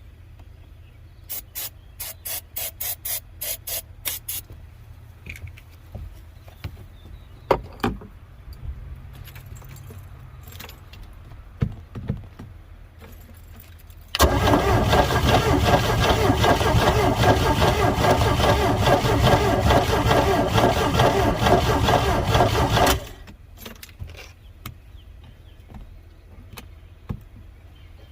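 The boat's inboard engine, sitting unused for years, cranked over by its starter motor for about nine seconds on a shot of starter fluid without firing, then the cranking stops abruptly. Early on, a quick run of about ten short hissing bursts as starter fluid is sprayed in.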